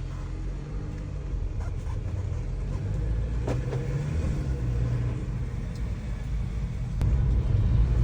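A 2015 Mercedes-Benz B250 being driven, heard from inside the cabin: a steady low engine and road rumble that grows louder, stepping up about seven seconds in. There is one light click about three and a half seconds in.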